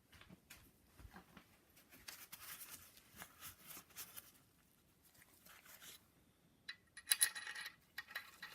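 Small steel parts clinking and scraping as they are handled. The sharpest clinks, ringing briefly, come about seven seconds in.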